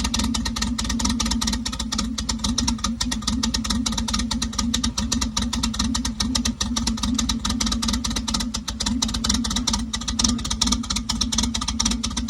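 Turbocharged Honda Civic four-cylinder engine idling steadily on its first start-up, a fast even pulsing without revs.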